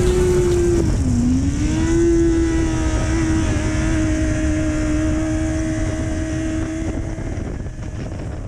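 Motorcycle engine running at track speed, heard onboard. Its pitch dips about a second in and climbs back within a second, then holds steady, and the sound eases off near the end.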